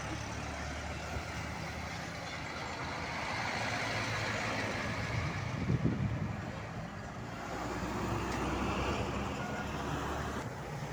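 Heavy truck's diesel engine running, the sound swelling and easing twice, with a short louder burst about six seconds in.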